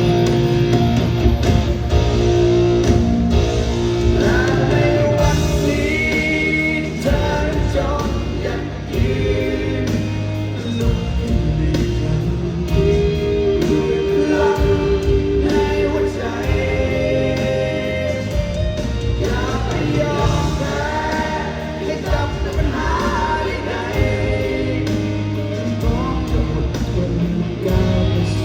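A live band playing a Thai pop-rock song: a melodic lead line over bass, guitars and drums, with no lyrics sung clearly enough to make out.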